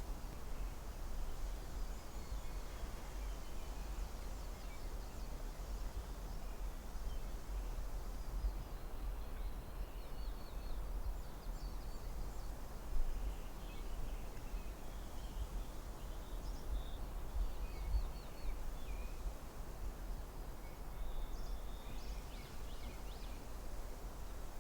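Forest ambience: a steady low rush of wind, with scattered faint bird chirps through the middle and near the end.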